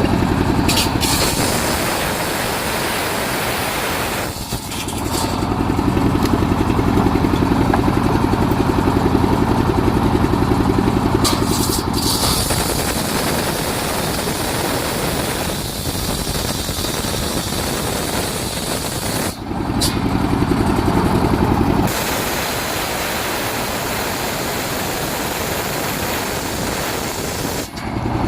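Engine of a mobile circular sawmill running steadily, getting louder and quieter in stretches of several seconds.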